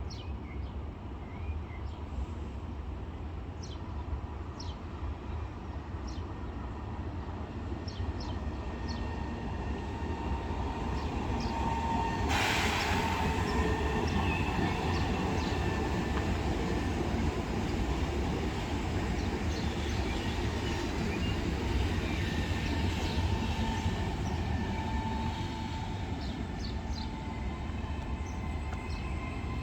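Electric passenger train running through a station. Its low rumble builds to a peak through the middle, with faint thin squealing tones and scattered short high clicks. A sudden hiss comes about twelve seconds in and fades over a couple of seconds.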